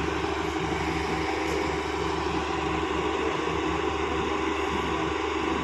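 Diesel engine of a tracked excavator running steadily at an even speed.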